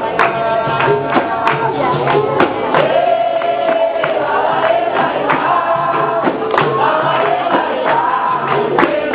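Capoeira roda music: several voices singing a chorus over a pandeiro tambourine and steady percussion strikes.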